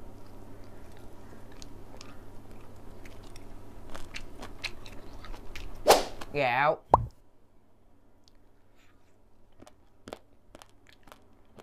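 Close-miked chewing of boiled chicken: small wet mouth clicks over a steady low hum for the first six seconds. A sharp knock comes about six seconds in. After that the hum stops and only faint, scattered clicks remain.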